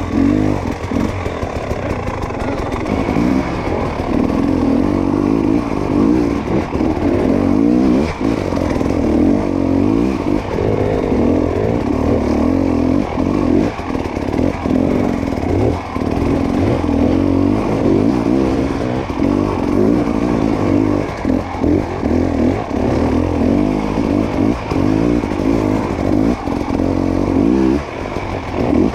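Dirt bike engine revving up and down over and over under constant throttle changes, with repeated clattering knocks and scrapes.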